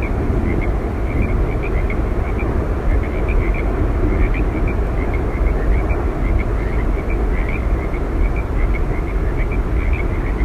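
Steady, loud roar of Yosemite Falls, with a dense run of short high chirps, several a second, over it.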